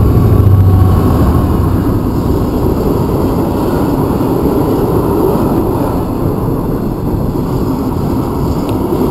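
Class 66 diesel-electric freight locomotive passing close by, its two-stroke diesel engine's low drone loudest in the first second or so. It is followed by the steady rumble of its loaded freight wagons rolling slowly past.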